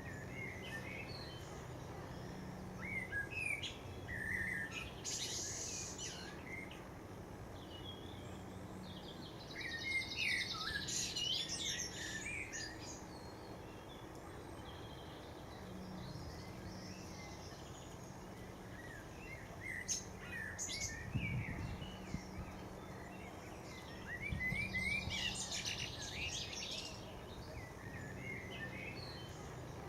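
Garden birds chirping and calling, with short notes throughout and a rapid trilled song twice, about ten seconds in and again near twenty-five seconds. A faint low hum runs underneath.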